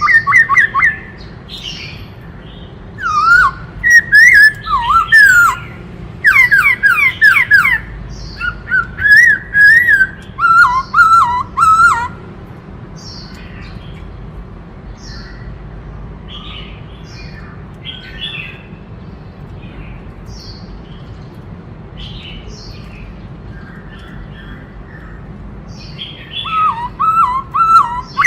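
Black-throated laughingthrush singing loud whistled phrases of quick rising and falling notes for about the first twelve seconds. After that comes a long quieter stretch with only faint, softer high notes. The loud phrases start again near the end.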